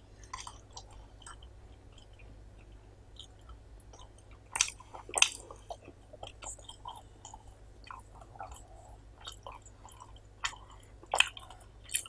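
Close-miked chewing of rice and curry, with wet mouth clicks and smacks scattered throughout, a few louder ones about four to five seconds in and again near the end.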